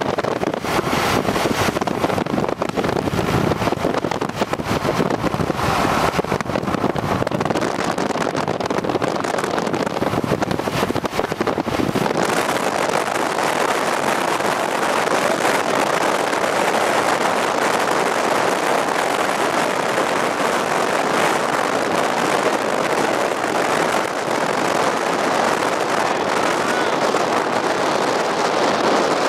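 Steady rushing noise of a vehicle and wind, with some crackling of wind on the microphone in the first half.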